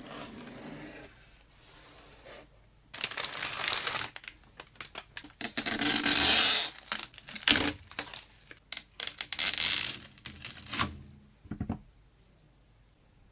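Packaging being torn open and crinkled, in several noisy bursts, with a few short clicks near the end.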